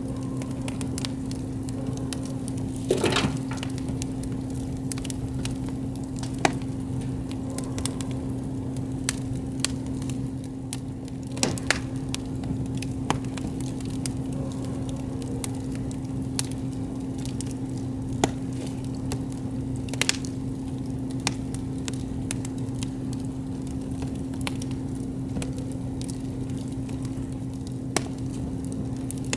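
Wood campfire crackling, with irregular sharp pops and snaps, a short cluster of them about three seconds in. A steady low hum runs underneath.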